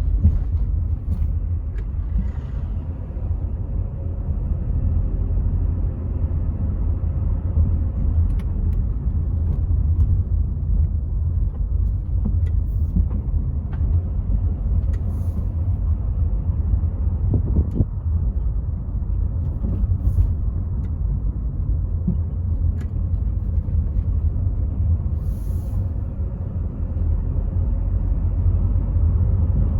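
Rover 75 V6 estate on the move, heard from inside the car: a steady low rumble of engine and road noise, with scattered faint ticks and knocks.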